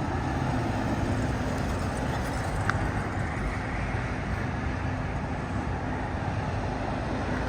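Steady road traffic noise: a continuous rumble of passing vehicles, with a brief click a little under three seconds in.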